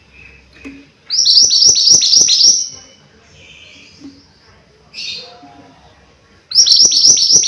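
Mantenan gunung songbird singing: two loud phrases, each a quick run of about six or seven high notes that each sweep downward, one about a second in and another near the end, with a few softer calls between.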